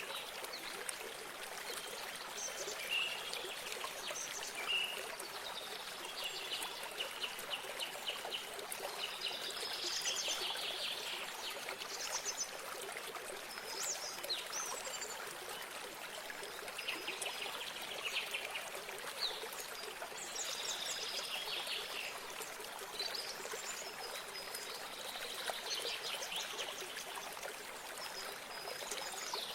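Running water trickling steadily, as from a small stream or spring, with birds singing short phrases over it every second or two.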